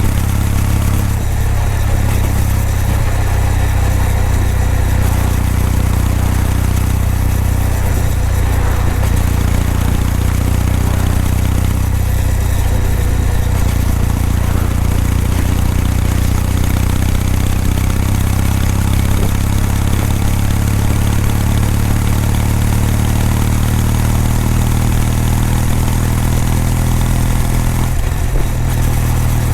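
Kawasaki W800's air-cooled parallel-twin engine and exhaust, running at a steady speed as the motorcycle cruises, with a slight change in engine speed near the end.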